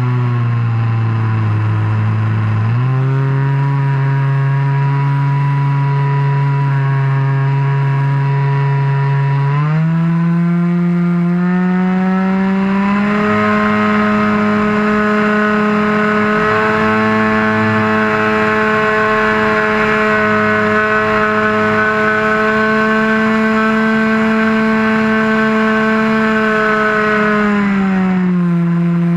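RC model airplane engine running in flight, close to the wing-mounted microphone. The pitch dips at first, climbs in steps as the throttle is opened, holds high for a long stretch, then drops near the end.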